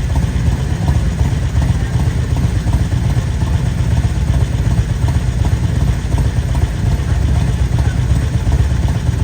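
Motorcycle engines running at low speed, a steady, dense low rumble.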